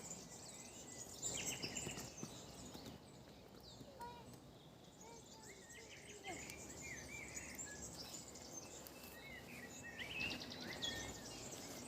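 Small birds chirping and twittering faintly, in quick short notes, over a quiet open-air background.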